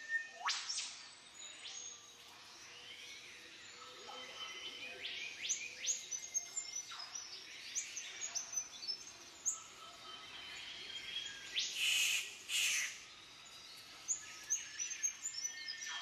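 Forest birds calling: many short, sharp calls that sweep steeply downward from high to low, with chirps between them and a louder burst of calls about twelve seconds in.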